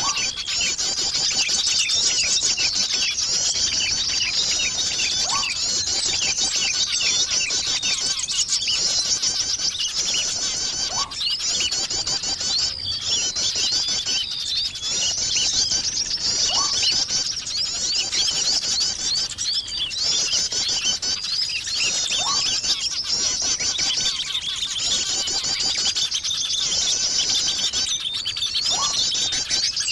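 Bird-luring call recording: a dense, continuous chorus of many small birds chirping and twittering at high pitch, with a short rising whistle at a lower pitch about every five or six seconds.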